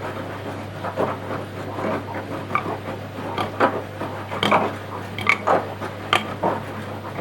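Washing machine drum turning the laundry: irregular clatter and knocks as the load tumbles, over a steady low motor hum.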